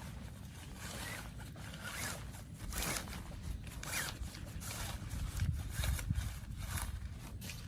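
Irregular rustling and scraping strokes over a steady low rumble.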